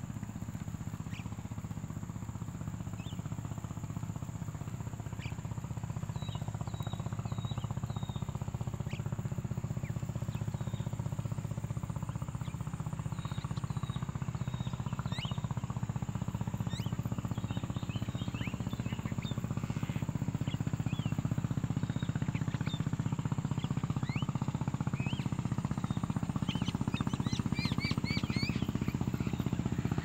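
Birds chirping outdoors: scattered short chirps and quick whistled sweeps that come more often in the second half and crowd together near the end, over a steady low rumble that slowly grows louder.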